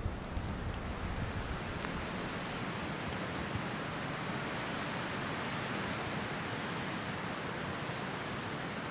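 Steady hiss of a heavy snowstorm, snow falling and wind moving through the forest, with a low wind rumble on the microphone that dies away after the first second or two.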